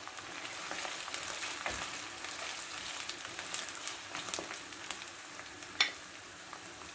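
Diced tofu and chopped onion sizzling in hot rapeseed oil in a pan, with scattered clicks and scrapes of stirring. The sizzle rises a little about half a second in.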